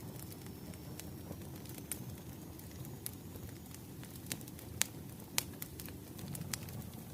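Bonfire crackling: scattered sharp pops and snaps over a low, steady rumble of burning. Two louder pops come about five seconds in.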